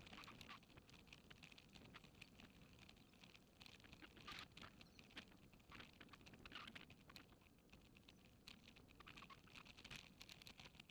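Very faint footsteps on a path: irregular light clicks and crunches over near silence.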